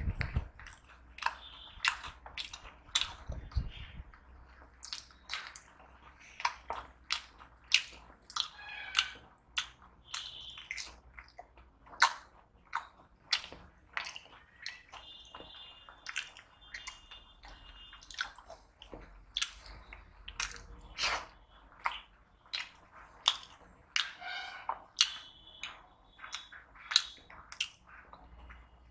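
Close-miked eating sounds: a man biting into fried food such as crunchy besan-fried brinjal and puri and chewing, with sharp clicks and smacks of the mouth at irregular intervals, one or two a second.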